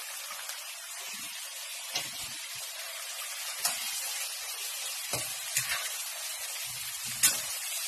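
Marinated chicken fillet frying in oil in a wok, a steady sizzle that slowly grows louder. Five sharp clicks break through it, the loudest near the end.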